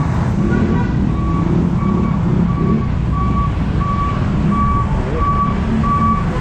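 Truck's reversing alarm beeping evenly, a bit over once a second, over the low steady running of its engine as it backs up.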